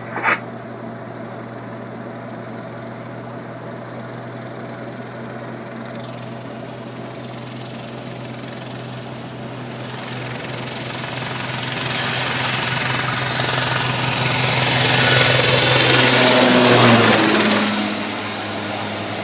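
Kaman SH-2G Seasprite helicopter flying by: its engine and rotor hum grows steadily louder over several seconds, peaks, then drops in pitch as it passes and recedes.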